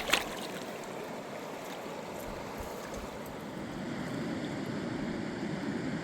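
Steady rush of a fast mountain river, growing a little louder about four seconds in, with a couple of sharp clicks right at the start.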